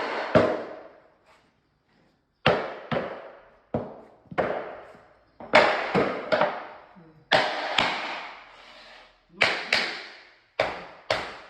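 Sharp knocks on solid timber floorboards being laid on a concrete slab, about fifteen at an irregular pace, often two in quick succession, each ringing briefly.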